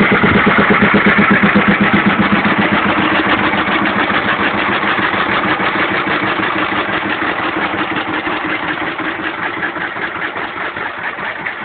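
1926 Bernard type W2 engine running with a rapid, even firing beat that grows steadily quieter, the engine close to stalling.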